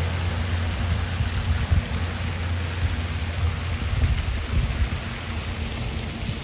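Wind buffeting the microphone: a loud, gusty low rumble over a steady rushing hiss.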